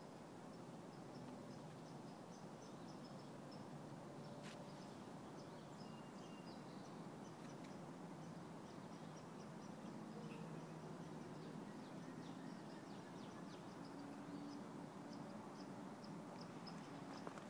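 Faint woodland ambience: small birds chirping again and again, high and short, over a steady low background noise, with a single brief click about four and a half seconds in.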